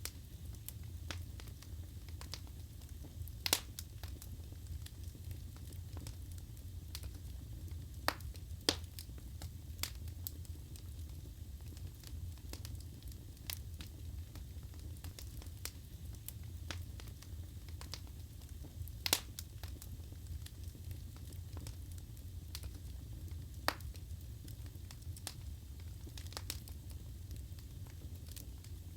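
Wood fire burning in a fireplace: a steady low rumble of flames with scattered sharp crackles and pops from the logs, a few louder pops standing out.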